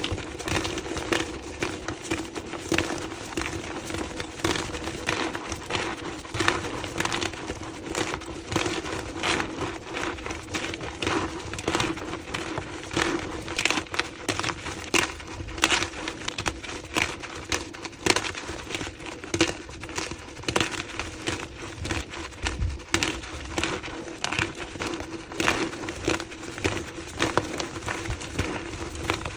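Gym chalk crushed and crumbled, played at double speed: a fast, continuous run of dry crunches and crackles, with a faint steady hum beneath.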